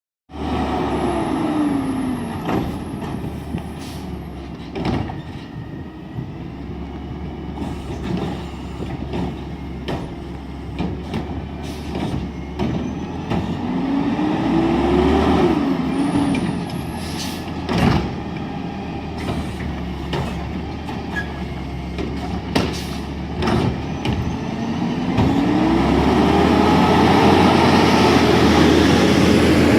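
Garbage truck running, its engine revving up and easing back three times as it works the hydraulic packer. Scattered sharp bangs and clanks throughout.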